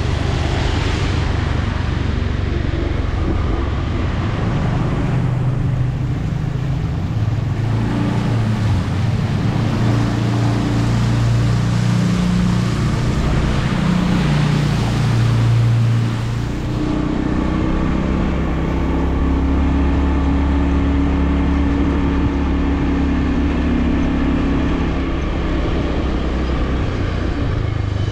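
A motor vehicle driving along a road: steady engine hum with road and wind noise. The engine note shifts about two-thirds of the way through, as if changing speed.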